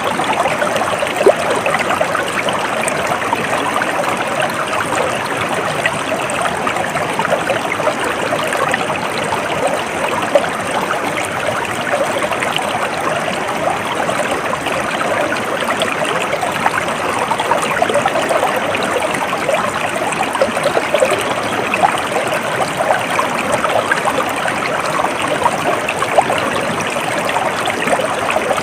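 Stream water flowing steadily, an even, unbroken rushing sound.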